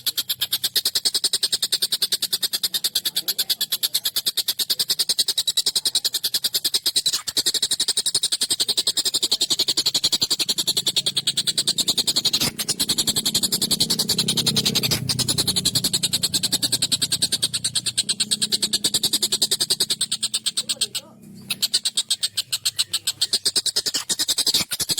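Kingfisher (tengkek buto) giving a long, harsh rattling call of very rapid, evenly repeated notes, with a brief break near the end.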